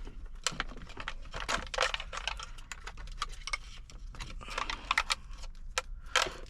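Irregular plastic clicks, taps and rattles as dash parts and wiring connectors are handled and fitted.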